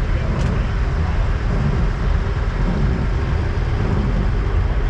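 Semi trucks' diesel engines idling together, a steady low rumble, with a brief click about half a second in.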